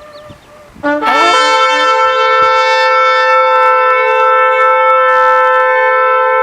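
Shofar (ram's-horn trumpet) blown in one long, steady, held blast that begins about a second in. It opens with a brief lower note that slides up into the main pitch.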